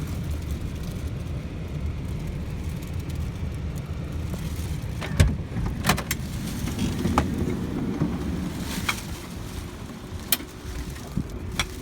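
Car's low, steady engine and road rumble. From about five seconds in come several sharp clicks and knocks, the loudest first, as the rumble eases.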